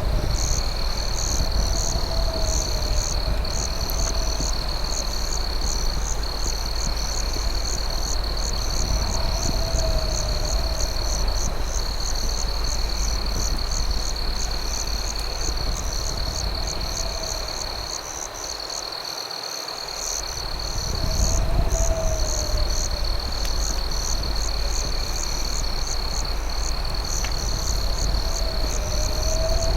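Night insect chorus of crickets: a steady high trill with rapid chirping above it. A lower warbling call comes back every few seconds, over a low steady rumble that dips for about two seconds around two-thirds of the way in.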